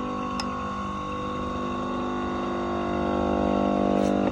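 Restored old air compressor running steadily with an even motor hum, with a couple of light clicks about half a second in and loudness building slightly near the end.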